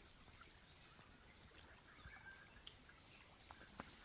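Faint outdoor ambience: a steady high insect buzz, with short, high, falling bird chirps a few times.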